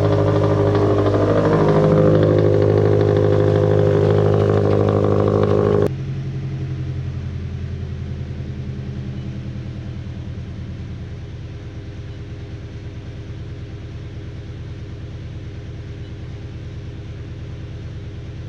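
An engine running steadily. About six seconds in the sound drops abruptly to a quieter, even running that carries on to the end.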